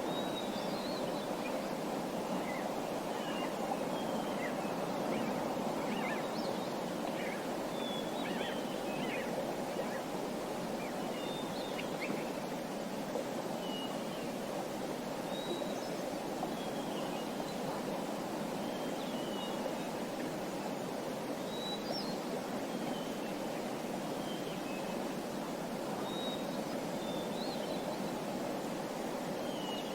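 Small birds chirping in short, scattered calls, some with quick up-and-down pitch sweeps, over a steady rushing noise.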